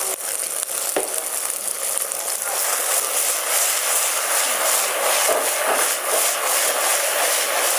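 Straw mushrooms sizzling in oil and sauce in a wok over a gas flame, a steady hiss. In the second half the wok is tossed, sliding the mushrooms about.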